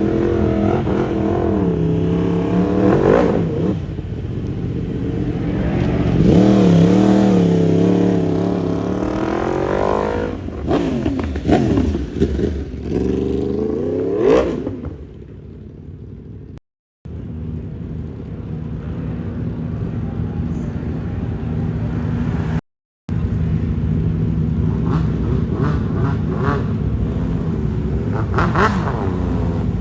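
Motor vehicle engines revving and pulling away, their pitch rising and falling several times over the first half. After two brief cuts in the sound, an engine runs steadily at low revs, with short rises in pitch near the end.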